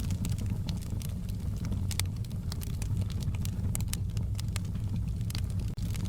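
Wood fire in a fireplace crackling: irregular sharp pops and snaps, a few louder ones, over a steady low rumble of the burning fire.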